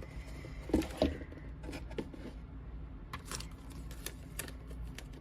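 Light clicks and small rustles of a sheet of adhesive vinyl being handled and placed, with two sharper taps about a second in, over a steady low hum.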